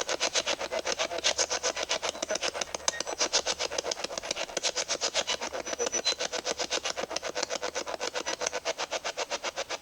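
Ghost-hunting spirit box sweeping through radio frequencies: an even, rapid chopping of static, about six or seven bursts a second.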